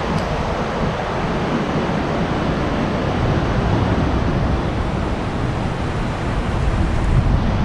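Strong wind buffeting the microphone: a steady, loud rumbling rush with no break.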